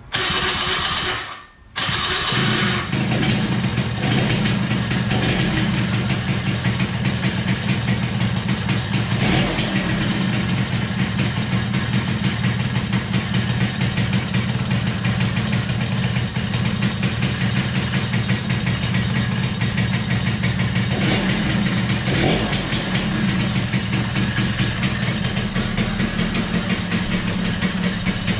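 A Honda Smile motorcycle's single-cylinder four-stroke engine is started on its first run after a rebuild with a new cylinder and a 0.50-oversize piston. After a short burst and a brief drop-out it catches about two seconds in, then idles steadily.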